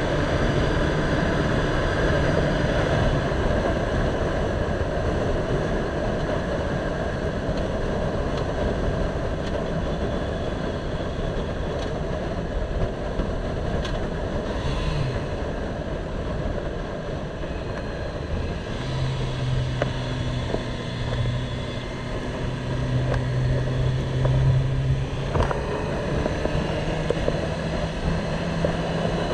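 Motorcycle on the road: its engine running at a steady pitch under a constant rush of wind noise. The engine hum fades under the wind for a while and comes back clearly for the last ten seconds.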